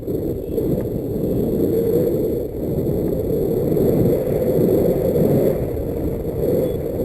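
Wind buffeting the microphone in flight: a loud, unsteady low rumble that swells and dips.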